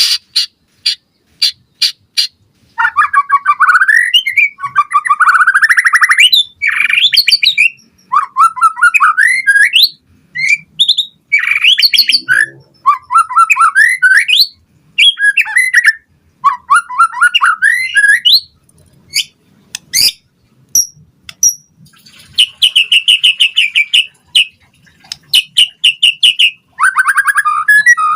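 White-rumped shama singing: a run of sharp ticks at the start, then long bursts of rapid, varied notes and trills with short pauses between them.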